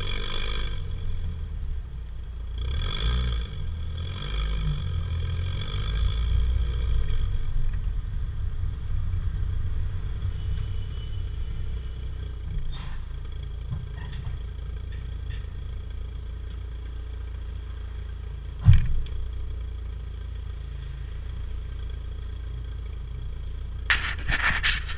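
Opel Vectra B 1.8 four-cylinder engine heard through a Novus aftermarket rear silencer. It rises in a few short surges of revs over the first several seconds, then settles into a steady low exhaust rumble. A single sharp knock comes about two-thirds of the way in, and a brief noisy clatter comes near the end.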